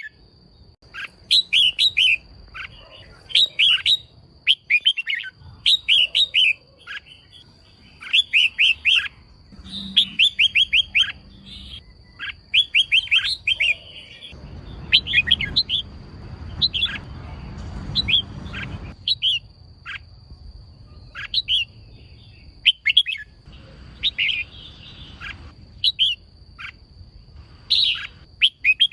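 Female red-whiskered bulbul calling: quick clusters of sharp, chattering chirps repeated every second or two, the kind of female call keepers use to stir males into singing. A faint steady high tone runs underneath, with a low rumble from about halfway in for several seconds.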